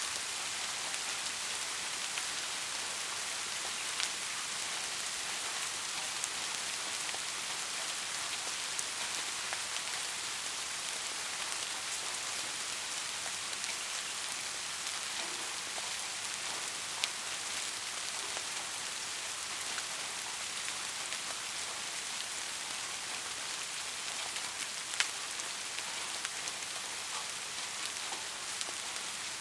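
Heavy rain falling steadily, an even hiss, with a few single sharp drop ticks standing out now and then.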